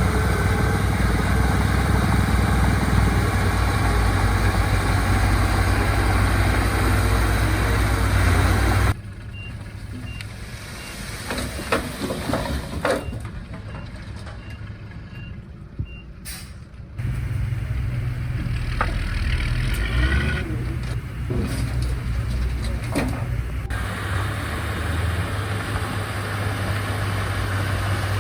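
Diesel engines of earthmoving machinery running loudly, dropping abruptly about nine seconds in to a quieter stretch of scattered knocks and a faint, evenly repeating reversing beep, before the loud engine sound returns about seventeen seconds in.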